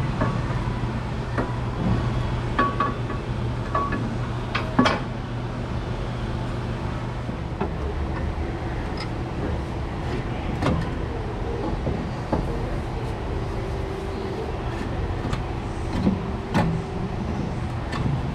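Metal clinks and knocks of a new suspension part being worked into place, with a sharp knock about five seconds in, over a steady low hum that fades about seven seconds in.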